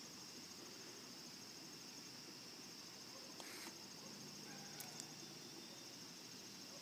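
Faint, steady high-pitched trilling of crickets in an evening insect chorus, with a couple of brief soft clicks a little past the middle.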